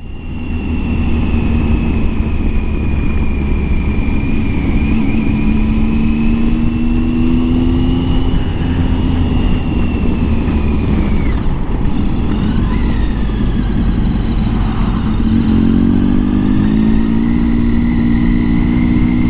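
Motorcycle riding along, probably the Triumph Tiger 800 XCx's three-cylinder engine. The engine note climbs twice as the bike gathers speed, over a steady low rumble.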